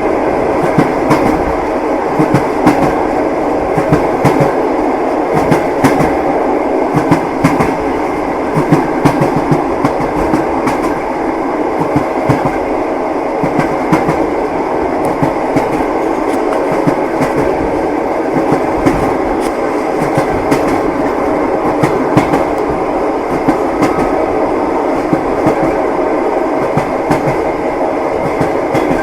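Railway carriage running steadily, its wheels clacking over the rail joints over a continuous rumble.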